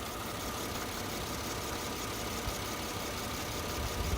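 1998 Mercedes C280 engine idling steadily with the air conditioning running on a newly fitted AC compressor, with a faint steady high whine over the engine noise. It sounds good.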